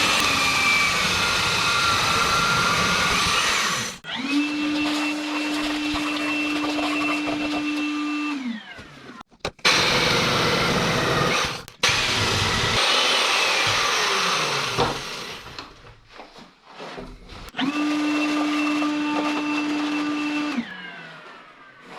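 Electric power tool cutting brace pockets into an oak beam: stretches of noisy cutting under load alternate with stretches where the motor runs freely at one steady pitch, spinning up and winding down, with a couple of sharp knocks in between.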